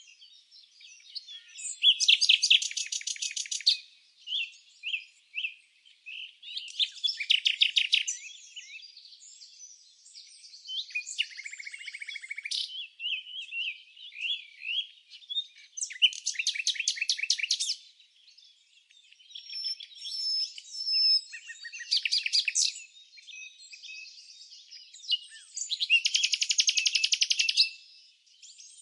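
Birdsong: birds chirping and calling, with a loud, rapid trilled song phrase of one to two seconds about every four to five seconds and softer high chirps in between.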